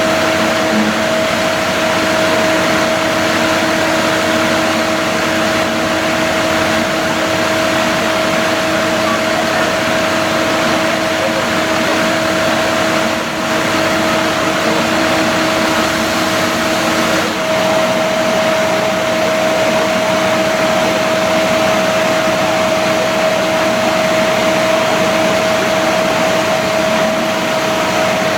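A machine running steadily: a loud, even drone with a constant humming tone. A lower hum drops out about two thirds of the way through.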